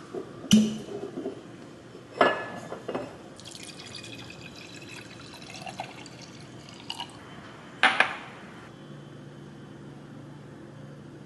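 Glassware and dishes clinking a few times, with liquid poured for a couple of seconds in the middle.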